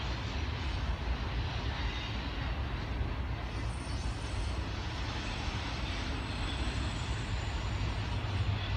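Double-stack intermodal container well cars rolling past: a steady deep rumble of steel wheels on rail, with a hiss of rolling noise above it.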